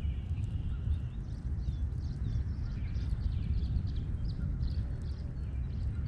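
Songbirds chirping and singing, many short calls throughout, over a steady low rumble on the microphone.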